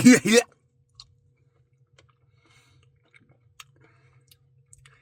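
A man's voice cuts off about half a second in, followed by faint chewing and small wet mouth clicks from eating soft ice cream, with a low steady hum underneath.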